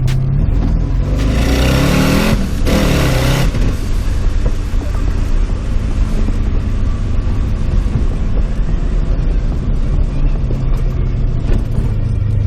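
Twin-turbo 1932 Ford coupe's engine, fed by a blow-through carburetor, accelerating: its pitch rises for about two seconds under a loud rushing hiss, then it settles into a steady drone.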